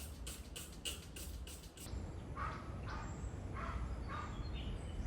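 A bird calling in a repeated series of short notes, about two a second, starting about two seconds in, over a steady low rumble; before that, a quick run of short clicks.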